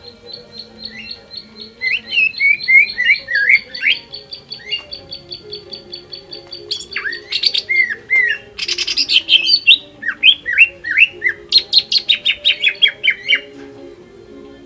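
Cucak ijo (green leafbird) singing hard, a fast string of high notes over downslurred whistled phrases. About seven seconds in it breaks into a louder, dense volley of rapid slurred and chattering notes, which stops about a second before the end.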